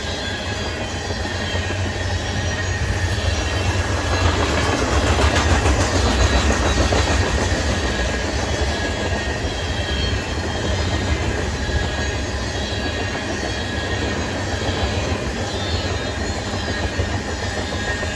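Freight cars of a passing CSX train rolling by: steel wheels on rail with a steady rumble, a thin wheel squeal, and rail-joint clicks that swell about five seconds in.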